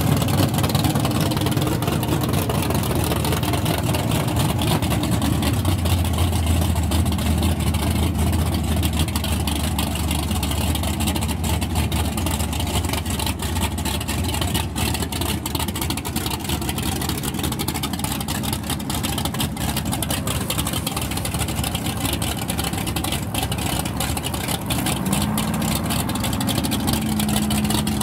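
Drag race car engine idling loudly and steadily at the line, with crowd voices behind it.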